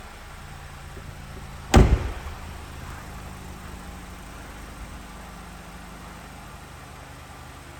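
2021 Nissan Rogue's four-cylinder engine cold-starting with a short loud burst about two seconds in, then idling steadily, its level easing down slowly as the fast idle settles.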